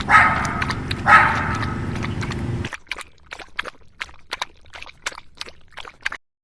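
An animal gives two short pitched calls over a steady low rumble. Sparse faint clicks follow, and the sound cuts off abruptly near the end.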